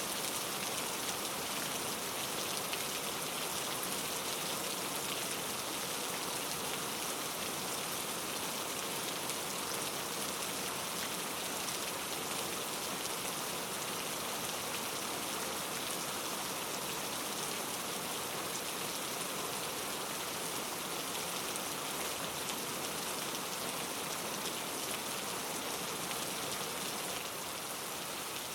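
Steady rain falling, an even patter of drops on a surface with no thunder.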